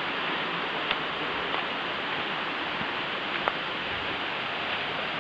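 Steady rushing of a waterfall pouring into a pool, with a couple of faint clicks.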